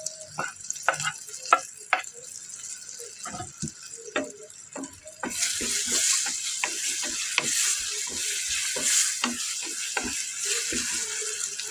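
Tomato pieces dropping into a pan of frying onion masala and a wooden spoon stirring them, with scattered knocks and scrapes. About five seconds in, a loud steady sizzle of frying starts and carries on under the stirring.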